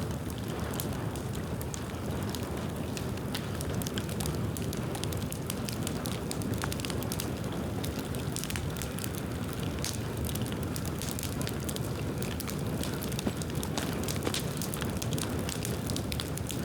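Bonfire of dry dead bamboo burning, a steady low rush of flame with frequent sharp crackles and snaps. One pop a little past the middle is louder than the rest.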